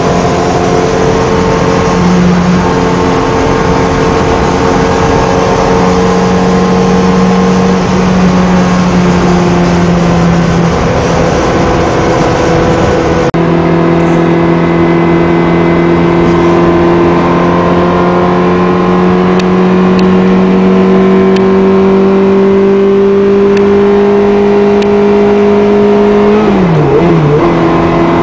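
Car engine running hard at a steady speed, its note holding steady, then after a change about halfway through slowly climbing in pitch, and dropping sharply about 26 seconds in as the revs fall.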